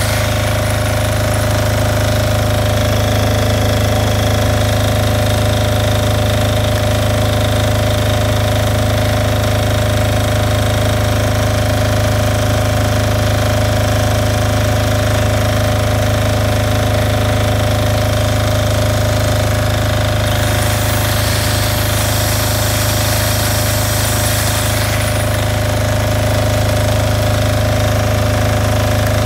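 Portable FAW-VW FDG8000 diesel generator running steadily at a constant speed, its diesel clatter loud and even throughout.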